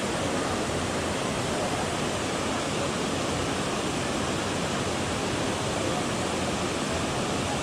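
Waterfall rushing steadily: an even, constant noise of falling water.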